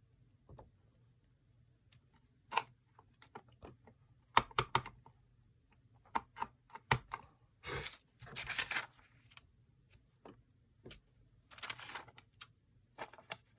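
Small clicks and taps of stamping and craft tools being handled on a work table, with a couple of longer paper rustles about eight and twelve seconds in.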